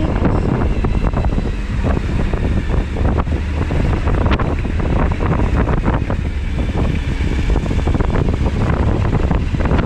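Wind rushing over the microphone at riding speed, with a Suzuki V-Strom 1000XT's V-twin engine running steadily underneath.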